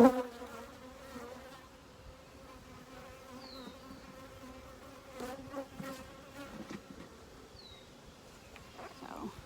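Honeybees buzzing around an open hive: a steady hum of many bees. A sharp knock opens it, and a few fainter knocks of handling come about five to six seconds in.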